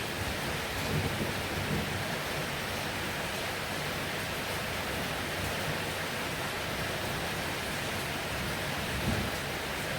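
Heavy rain falling steadily, a dense even hiss, with low rumbles swelling briefly about a second in and again near the end.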